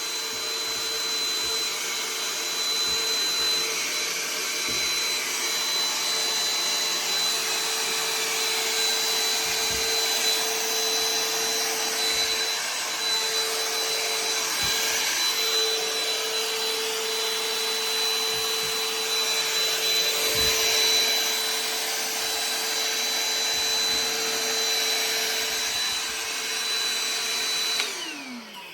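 Ryobi portable vacuum running steadily with a constant whine as it sucks up bees. It is switched off near the end, its pitch falling as the motor winds down.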